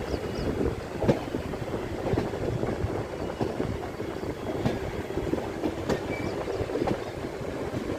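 Indian Railways express passenger train running on the track, with a steady rumble and the wheels knocking over rail joints every second or so.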